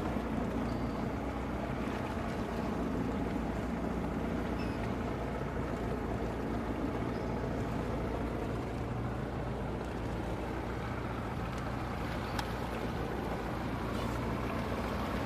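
Boat engine running steadily, with wind and water noise.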